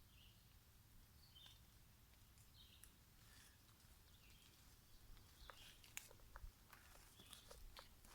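Near silence in a forest: faint, scattered bird chirps, then from about halfway through soft clicks and rustles of footsteps on the forest floor.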